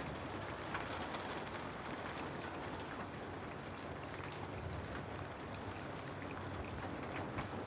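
Steady rain falling, with many small separate drop ticks over an even rushing hiss.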